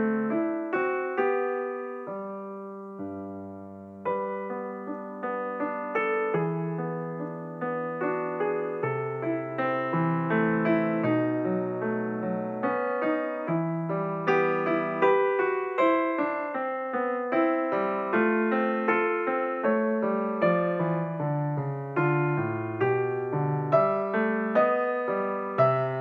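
Background piano music, gentle melody with many notes and sustained chords, softening briefly a few seconds in.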